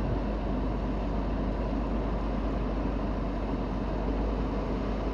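BMW M5 Competition driving at a steady pace, its twin-turbo V8 and road noise heard from inside the cabin as an even, deep rumble with no revving.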